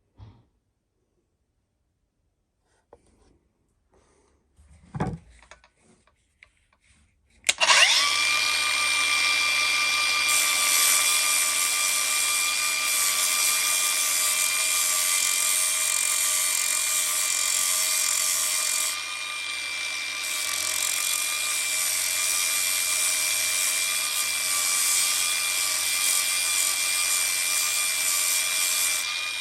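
A few faint knocks, then about seven seconds in an electric power tool starts up and runs steadily with a high whine over a grinding hiss, sanding and polishing the metal of an old hammer. Its level dips a little about two-thirds of the way through.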